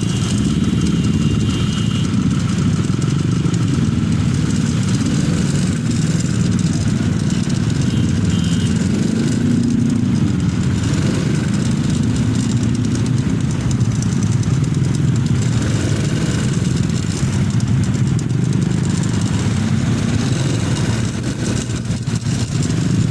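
Motorcycle engine running steadily, its pitch drifting slightly up and down with engine speed.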